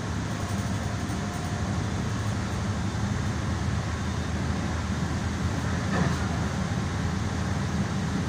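Passenger train car running at speed, heard from inside the cabin: a steady low rumble with a single brief knock about six seconds in.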